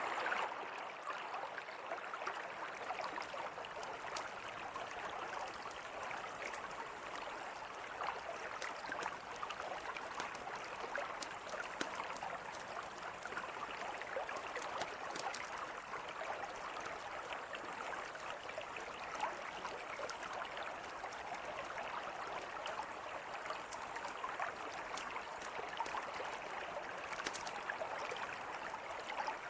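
Steady rushing of a flowing river, with sparse crackles and pops from a wood campfire scattered through it.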